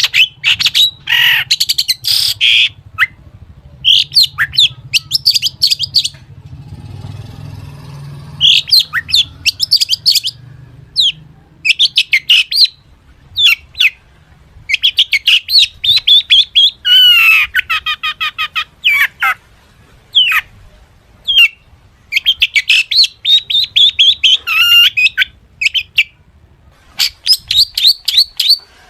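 Long-tailed shrike (cendet) singing: loud clusters of quick chirps, squeaks and harsh notes with short pauses between them, in a song packed with mimicked phrases of other birds.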